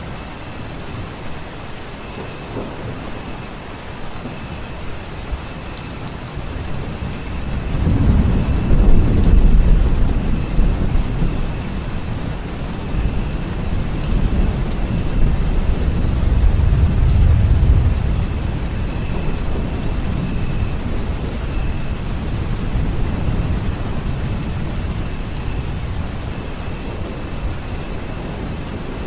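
Steady rain falling, with two long low rumbles of thunder, the first about eight seconds in and the second about fifteen seconds in.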